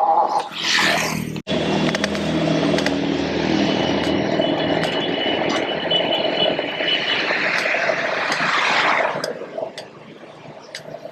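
Street traffic: a motor vehicle running close by and loud for several seconds, then fading away about nine seconds in, leaving quieter road noise.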